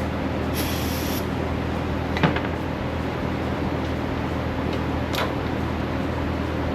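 A machine runs with a steady, even hum, with a short burst of hiss about half a second in and two sharp clicks, near two and five seconds.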